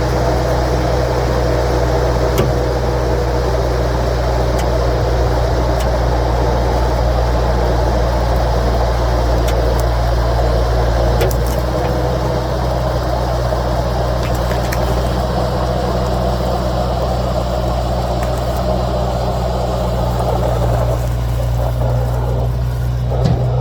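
Skid steer engine running steadily at a constant speed, with a few brief sharp clicks over it.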